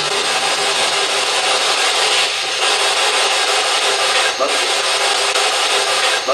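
Loud steady hiss of radio static from a spirit box sweeping between stations, dipping briefly a couple of times.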